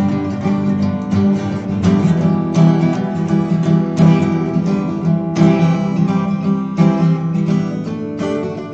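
Acoustic guitar strumming chords in a steady rhythm: the instrumental introduction to a sing-along song.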